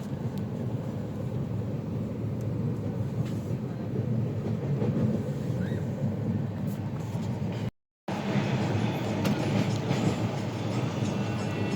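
Passenger train running on the track: a steady low rumble with rattling. It cuts out for a moment about eight seconds in, then carries on with more clatter and hiss.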